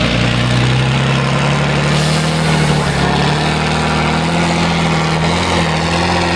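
Heavy truck-trial truck's diesel engine running hard under load, its pitch rising over the first couple of seconds and then holding steady.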